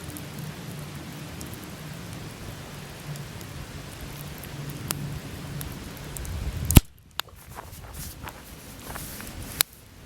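Wood fire burning: a steady hiss with scattered small crackles and pops. About two thirds of the way in a loud sharp pop comes, after which the low rumble drops away and the crackles are sparser, with another sharp pop near the end.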